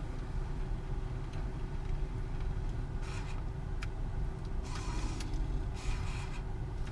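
Car idling, a steady low rumble heard from inside the cabin, with a few short hissing rustles.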